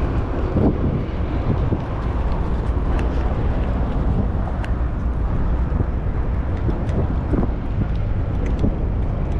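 Wind rumbling steadily on the microphone of a cyclist riding along, with a few faint clicks.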